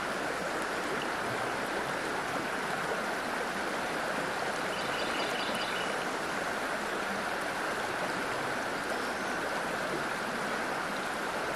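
A chorus of periodical cicadas holds one steady high drone over the constant rush of river water.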